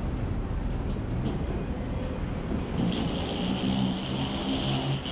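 Steady low rumble of a moving vehicle. About three seconds in, a pitched hum and a hiss join it, and both stop abruptly near the end.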